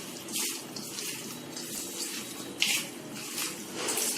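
Hands squeezing and mixing raw chicken pieces in a bowl with ginger-garlic paste and spices, giving wet squelching squishes at irregular moments.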